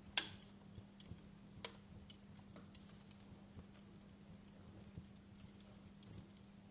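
Wood fire in a fireplace crackling, with irregular sharp pops. The loudest pop comes just after the start and another about a second and a half later, over a steady low hum.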